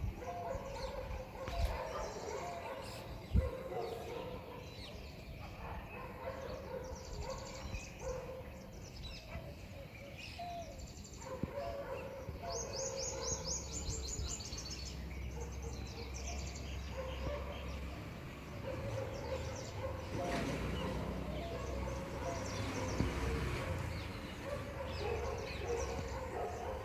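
Several birds chirping and calling, with many short high notes throughout and a fast trill of repeated notes about halfway through. A low steady rumble runs underneath in the second half.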